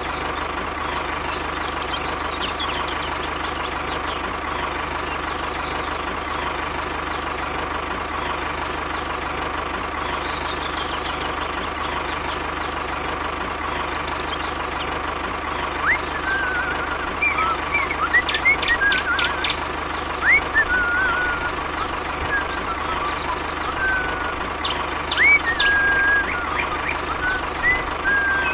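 A small motor running with a steady hum throughout. Birds chirp repeatedly from about halfway through.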